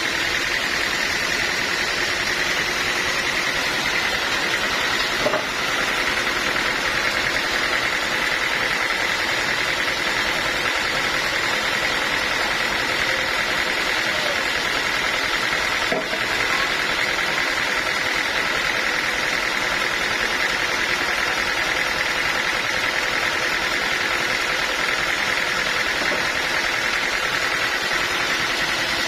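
Sawmill machinery running steadily, a constant mechanical noise with a steady high whine, and two brief knocks about five and sixteen seconds in.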